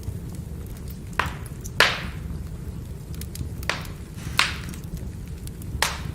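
Burning firewood crackling: a steady low rumble of the fire with five sharp pops and scattered small ticks. The loudest pop comes a little under two seconds in.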